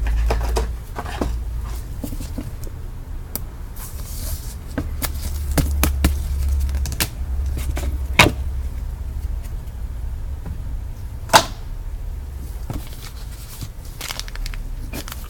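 Trading cards being handled and shuffled through, with scattered small clicks and ticks and two sharp clicks about eight and eleven seconds in, over a steady low hum.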